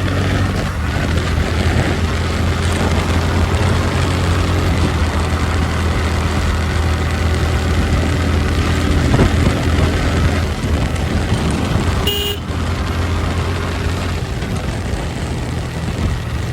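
Motorcycle riding on the road: a steady engine drone under wind and road noise. About twelve seconds in there is a brief horn toot.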